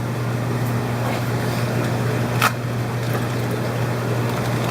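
Aquarium fish-room pumps and circulating water: a steady low hum under a constant wash of water noise, with one sharp click about halfway through.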